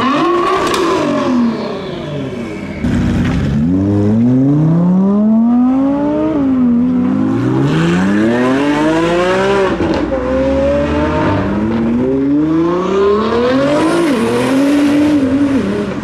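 Sports car engines accelerating hard through the gears: the engine note climbs steeply, drops at each upshift and climbs again, several times over.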